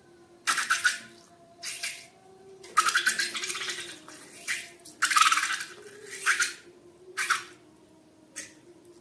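Sticky slime being squished and mixed by hand, in irregular short bursts of wet crackling squelches.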